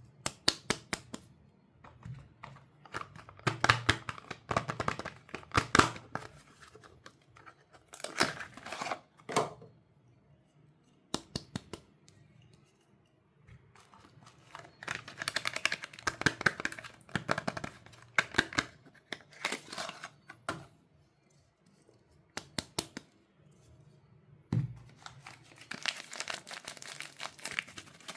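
Soap wrappers being crinkled and torn open by hand: bursts of crackling and tearing in clusters a few seconds long, with short quiet pauses between them.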